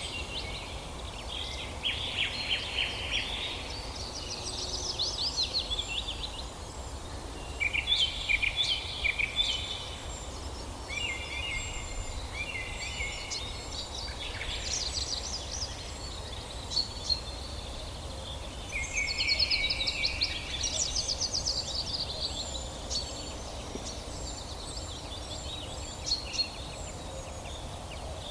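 Several songbirds singing in overlapping phrases of rapid trills and warbles, with a thin high call repeating about once a second, over a steady low background noise.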